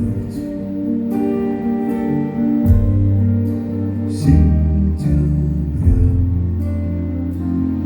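Live band music with guitar over a steady bass line, and light cymbal hits.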